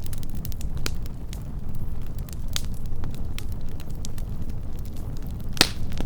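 Wood fire burning with a steady low rumble and scattered sharp crackles and pops, the loudest pop about five and a half seconds in.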